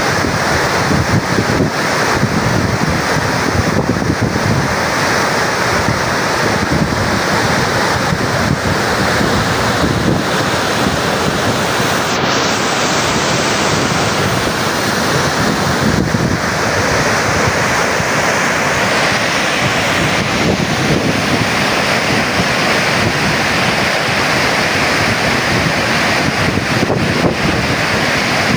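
Floodwater rushing through Tarbela Dam's service spillway: a loud, steady, unbroken rush of water.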